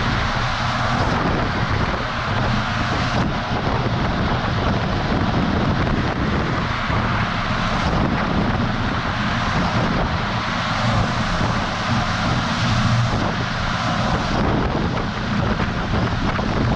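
Semi truck under way, heard from a camera mounted on the outside of the cab: a steady rush of wind and tyre noise over a low engine drone.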